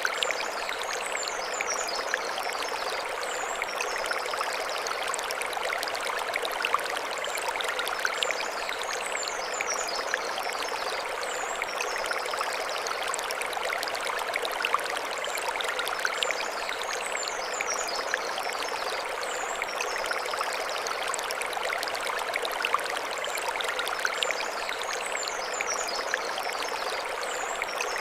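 Mountain stream flowing over stones: a steady rush and splash of water. High chirps recur in short groups every several seconds above it.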